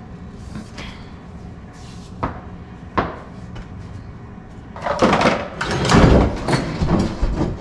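Two sharp knocks, then a few seconds of loud clattering and scraping with thuds as building debris is handled during floor tear-out work.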